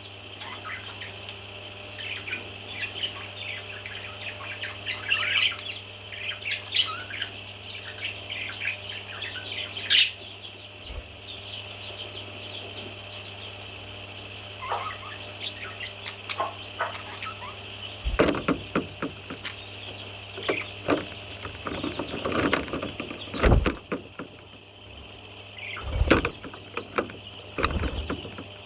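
Baby parrot chicks chirping in many short calls over a steady high-pitched background. In the second half several sharp knocks and thumps come in.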